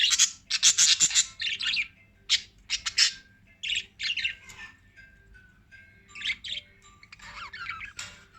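Pet lovebirds chattering in bursts of high-pitched chirps, dense for the first couple of seconds, sparser in the middle and picking up again near the end.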